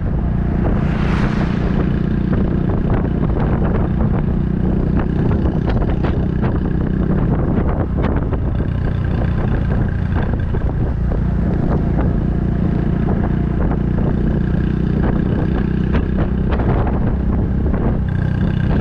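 Honda Super Cub 110's single-cylinder four-stroke engine running at a steady cruise through an aftermarket Kitaco mini Cabton muffler, with wind buffeting the microphone.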